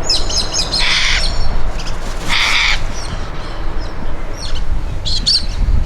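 Parrots squawking: two long harsh screeches, about a second and two and a half seconds in, with shorter calls between and near the end, over a steady low rumble.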